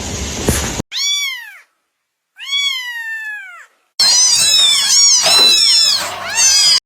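Kittens meowing: two separate long, high meows with silence between, then several kittens meowing at once over each other for the last few seconds.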